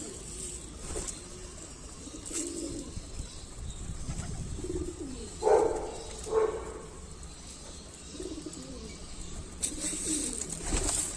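Pigeons cooing repeatedly, low rolling coos every couple of seconds, with two louder calls about halfway through. A few sharp noises come near the end.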